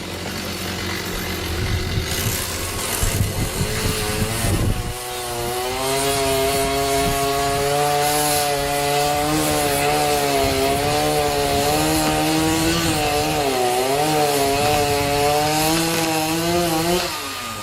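Chainsaw cutting a tree branch. After a few seconds of rough, uneven noise, the engine holds a steady high pitch from about five seconds in, wavering slightly as the chain bites, and winds down just before the end.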